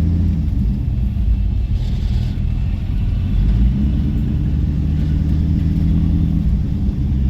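Motor vehicle engine running at low speed: a steady low hum whose pitch shifts a couple of times.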